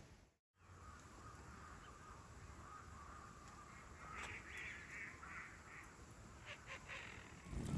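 A bird calling faintly about five times in quick succession over quiet outdoor ambience, followed by a few light clicks.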